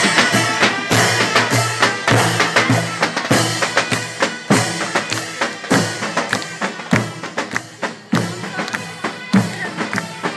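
Mehter band playing on the march: davul drums beating with steady strikes under reedy zurna pipes holding long tones.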